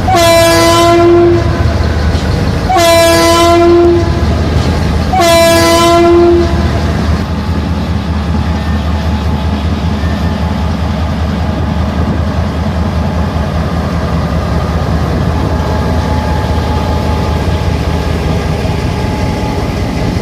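Diesel locomotive horn sounding three single-tone blasts, each about a second long, in the first six seconds: a greeting from the driver. A steady low diesel engine rumble follows as the passenger train departs.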